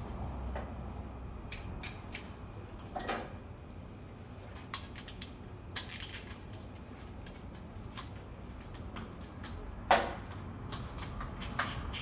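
Scattered light clicks and metallic clinks of hand tools and parts being handled during work on a scooter, with one louder clank about ten seconds in.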